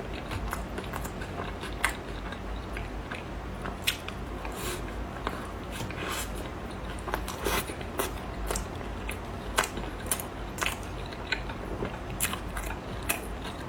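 A person eating salad with crunchy bites and chewing: many short, irregular crisp clicks.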